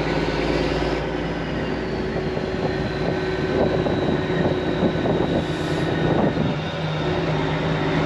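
Semi truck's diesel engine running steadily, heard from inside the cab, with a thin high whine that drops slightly in pitch near the start.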